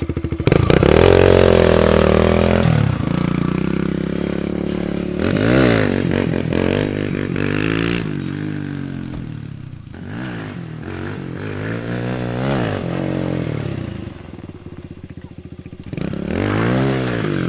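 Dirt bike engine running and revved up and down several times in blips, loudest in the first few seconds.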